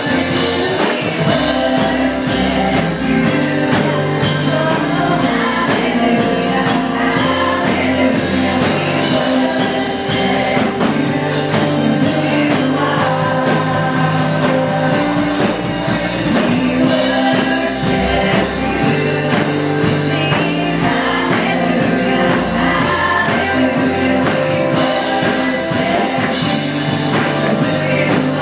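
Church worship music: singing over a full band with bass and a steady beat.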